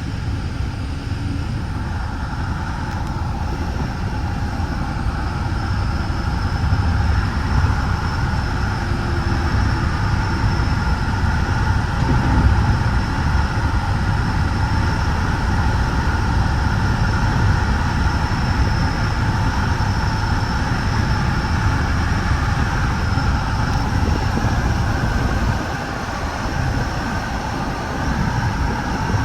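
Running noise inside a Metra bi-level commuter cab car on the move: a steady low rumble of wheels on rail with a faint high whine over it. The noise drops briefly a few seconds before the end.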